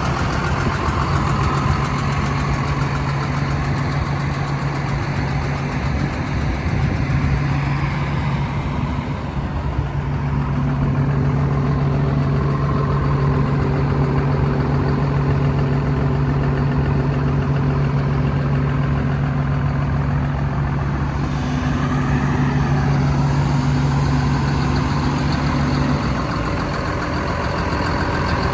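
2007 John Deere 7130 tractor's diesel engine running steadily, with an even low hum. The note shifts a little in the first several seconds and changes near the end.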